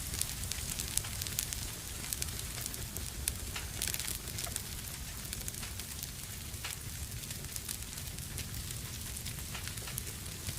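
Fire burning in a fireplace, crackling with frequent irregular pops and snaps over a steady low rumble and hiss.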